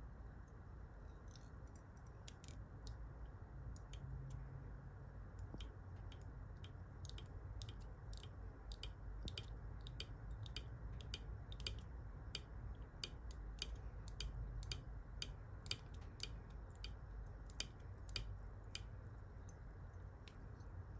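Fly-tying thread being started and wrapped on a hook in a vise: a run of small, irregular ticks and clicks, several a second, over a steady low hum.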